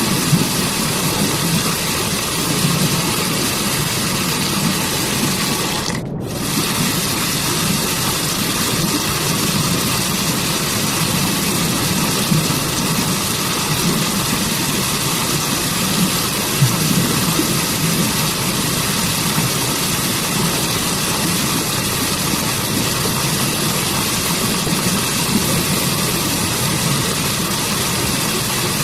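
Waterfall: steady, continuous rushing of falling water, a dense hiss with a low rumble beneath. About six seconds in, the hiss cuts out for a moment.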